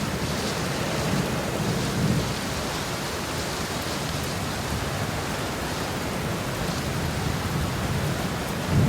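Heavy rain pouring steadily, with a low rumble swelling briefly about a second in and again near the end.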